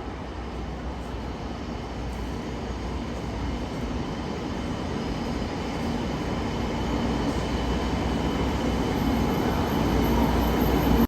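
Inside a train's passenger cabin: running noise from the wheels and motors grows steadily louder as the train picks up speed.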